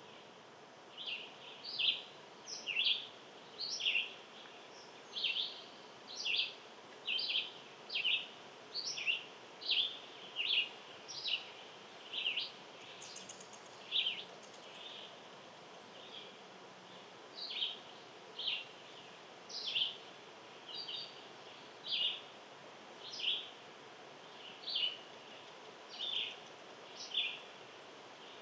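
A small animal giving a long series of short, sharp, high chirps, about one a second, a little faster in the first half and slower later, over faint steady outdoor background noise.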